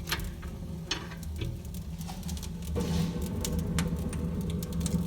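Damp firewood burning in a brick fireplace: irregular crackles and pops over the steady low rumble of the fire drawing up the flue, which grows louder about three seconds in.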